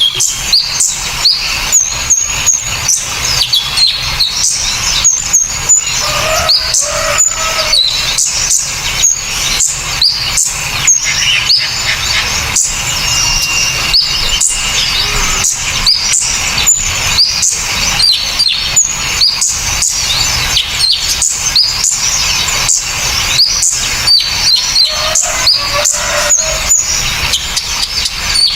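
A mixed bird-song training track of small songbirds, combining kolibri ninja, serindit, kinoi and woodpecker calls: dense, sharp, high chirps and short whistled notes, with fast sharp clicks several times a second throughout.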